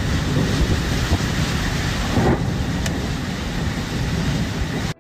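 Storm wind and rain buffeting the microphone: a steady rushing hiss over a deep rumble, broken by a brief dropout just before the end.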